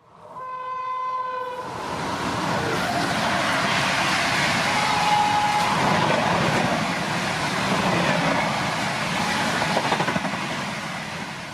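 Locomotive horn sounding one short blast, then a WAP-7-hauled express with LHB coaches passing at about 130 km/h: a loud, steady rush of wheels and air with rail clatter. A brief second horn note sounds about five seconds in.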